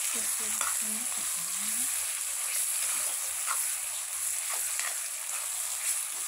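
Chopped tomatoes and sliced onions sizzling in hot oil in a steel kadhai, with a steel spatula stirring and scraping the pan in short clicks. This is the frying of the onion-tomato masala base, the tomatoes just added to onions already nearly browned.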